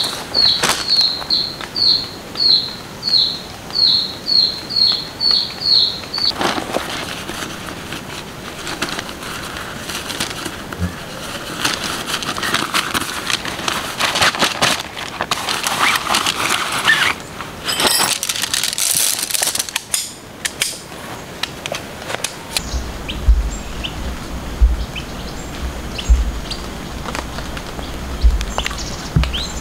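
A bird calling a quick run of short, high chirping notes, about two a second, for the first six seconds. Then rustling and crinkling of tent fabric being unfolded and spread on the ground, with a low rumble and a few dull thumps from about three-quarters of the way in.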